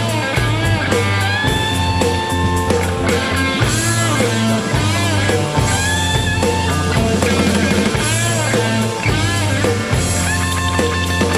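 Rock music played by a band: electric guitar playing bending lead notes over bass and drum kit.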